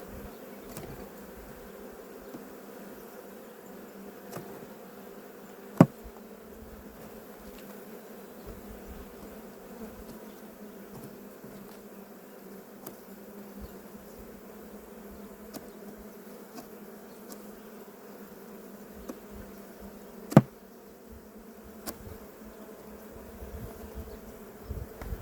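Swarm of honeybees buzzing steadily around an opened hive, a dense hum. Two sharp clicks cut through it, one about six seconds in and one near twenty seconds.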